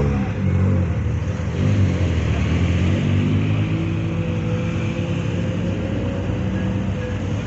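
A car engine pulling away. Its note rises briefly at the start and again about two seconds in, then holds fairly steady.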